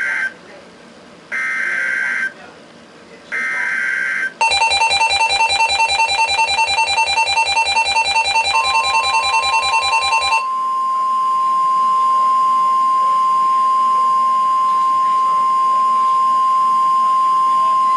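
NOAA Weather Radio alert signal. The end of one SAME digital header burst is followed by two more short data bursts a second apart. A Midland weather radio then sounds its fast-pulsing alert alarm for about six seconds. Overlapping its end, the steady 1050 Hz warning tone comes in and is held for about ten seconds, announcing a new severe thunderstorm warning.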